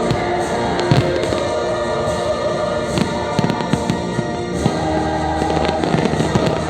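Fireworks bursting over the show's orchestral and choral soundtrack, with frequent sharp bangs and crackles set against steady music.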